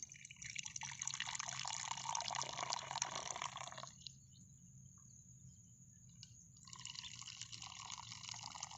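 Tea being poured into cups, faintly, twice: a pour lasting about three and a half seconds, a pause of nearly three seconds, then a second pour near the end.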